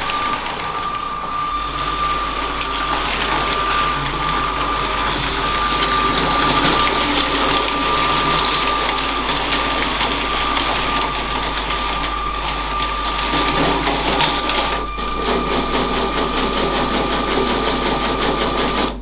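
A LEGO train's small electric motor whirring steadily with a thin, high whine, its wheels rattling over plastic track with light clicks. The sound drops out briefly about fifteen seconds in, then carries on.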